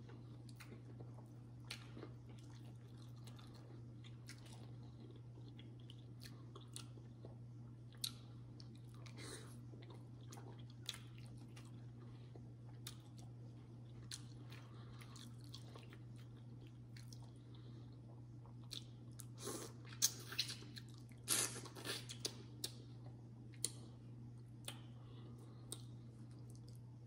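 A person eating a seafood boil: quiet chewing with scattered wet clicks and crackles, over a steady low hum. A louder run of crackles and clicks comes about twenty seconds in.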